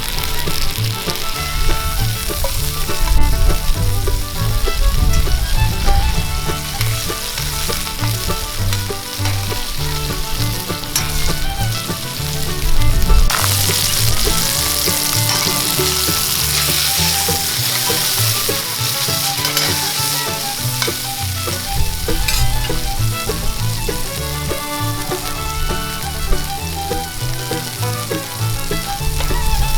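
Hamburg steak patties frying and sizzling over a campfire; the sizzle gets louder about halfway through. Background music plays over it.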